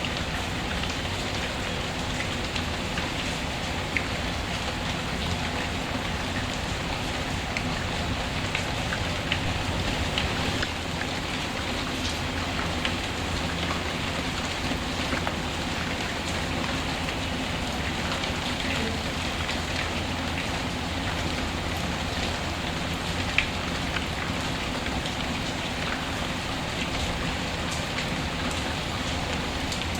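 Steady rain falling, with the scattered crackles and pops of a wood fire; one sharper pop stands out about 23 seconds in.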